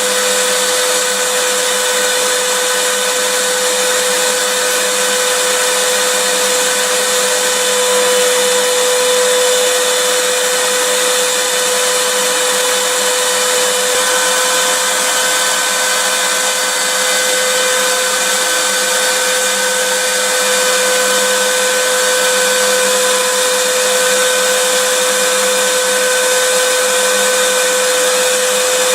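Vacuum cleaner running steadily, a constant rushing hiss with a steady high whine of its motor.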